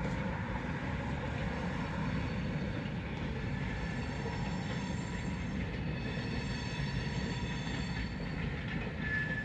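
Freight train rolling past, a steady rumble of wheels on rail, with a wheel squeal rising near the end.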